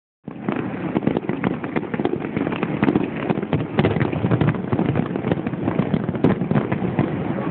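Fireworks display: a dense, continuous rattle of bursts and crackles.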